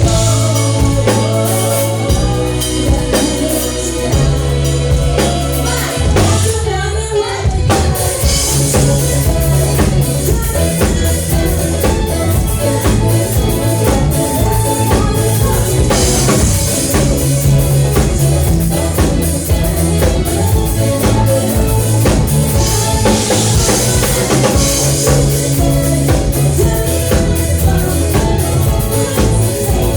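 Live band playing, with drum kit, bass and a singing voice, the drums keeping a steady beat. The music drops out briefly about seven seconds in, then the full band comes back in.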